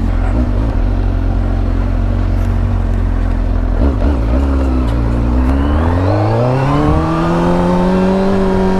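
Vehicle engine running at a steady low note, then accelerating: its pitch rises smoothly from about five seconds in and levels off at a higher steady note near the end.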